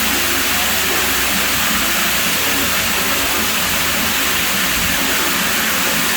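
Pool water running in a steady, even rush with no breaks.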